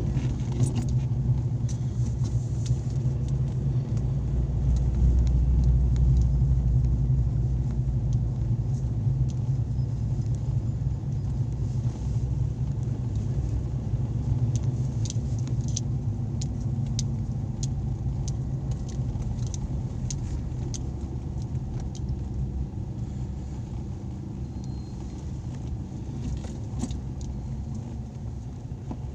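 A moving vehicle's engine and road noise heard as a steady low rumble, a little louder a few seconds in, with light clicks and rattles now and then.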